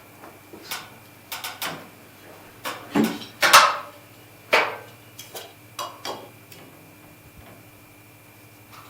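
Irregular knocks and clacks of timber and tools being handled and fitted, about a dozen sharp strikes, the loudest about three and a half seconds in.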